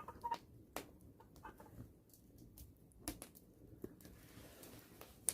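Wood fire crackling: scattered, irregular sharp pops and snaps over a faint background hiss.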